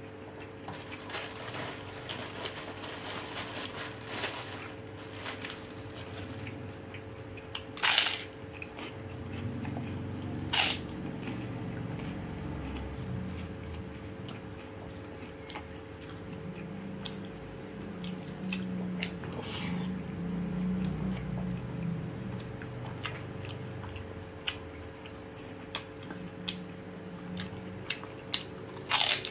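A person eating rice by hand: chewing and mouth sounds with small clicks of fingers and food against the plate, and two sharper knocks, about eight seconds in and near the end. A steady faint hum runs underneath.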